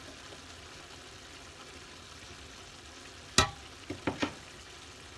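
Paella of rice, seafood and fish sizzling steadily in its pan, with one sharp knock about three seconds in and three lighter knocks soon after as the pieces are arranged in the pan.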